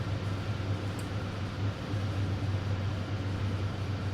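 Steady in-cabin road and engine hum of a car cruising at highway speed, with a faint tick about a second in.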